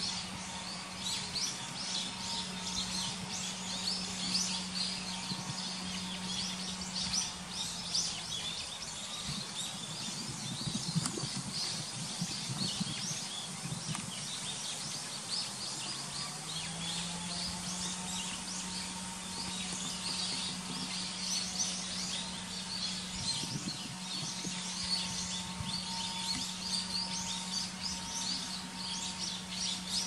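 Wild birds chirping and singing in the trees, a dense run of short high chirps that keeps going without a break. A faint steady low hum lies underneath; it sinks and fades for a few seconds around the middle, then glides back up.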